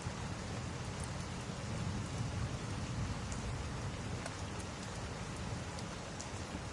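Steady rain, with a low rumble of thunder that swells and fades in the middle. Faint scattered crackles of a wood fire sound over it.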